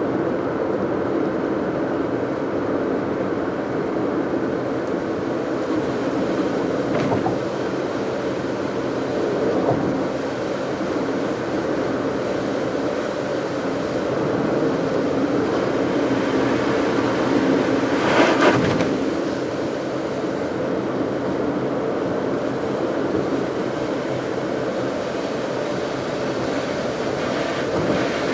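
Steady road noise of a car being driven, engine and tyres running in an even rumble. About two-thirds of the way through there is a brief louder rushing swell.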